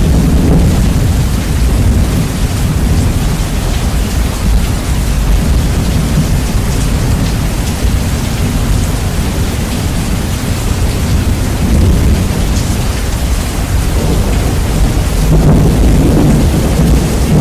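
Steady heavy rain with rumbling thunder, the recording bass-boosted so that the low end dominates and plays loud. The rumble swells again near the end.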